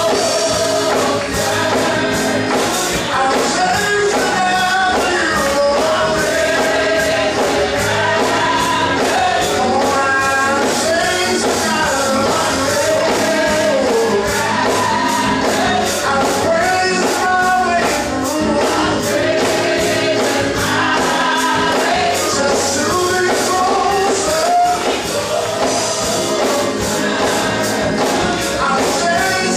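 Gospel choir singing with a band, percussion keeping a steady beat.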